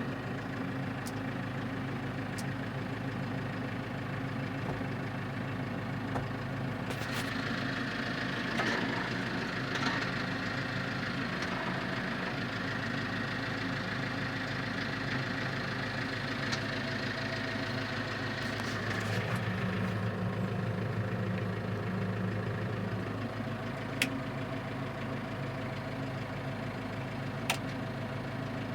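Case IH Farmall 85 tractor's diesel engine idling steadily, with a few sharp clicks along the way.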